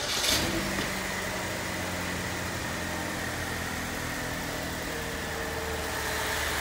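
2007 Pontiac G5's 2.2-litre Ecotec four-cylinder engine starting with a click and a brief crank, catching within about half a second and settling into a steady idle. It runs on a newly fitted mass airflow/intake air temperature sensor.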